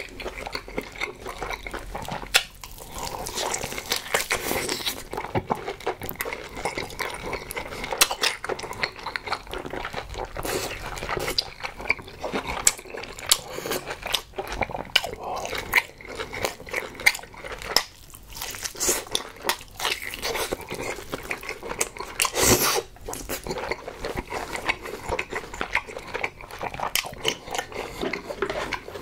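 Close-miked eating of boiled pork belly (suyuk): wet chewing, biting and smacking mouth sounds in a dense, irregular run, with one louder burst about two-thirds of the way through.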